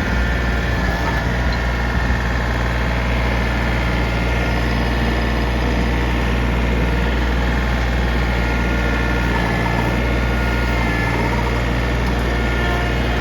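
Diesel engine of heavy equipment, either the excavator or the tractor, running steadily at a constant speed.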